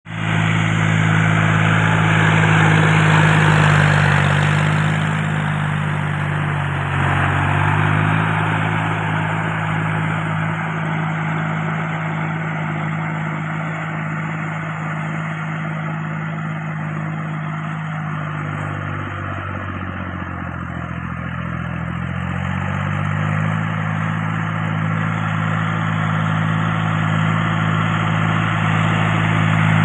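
John Deere tractor engine running steadily. Its speed drops and picks back up twice, about five seconds in and again after about eighteen seconds.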